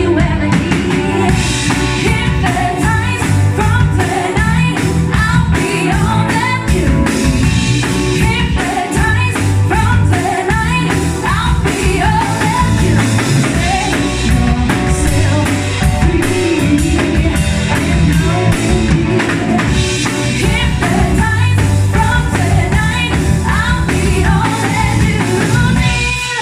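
Live rock band playing a song: a singer's voice over guitar, bass and drum kit.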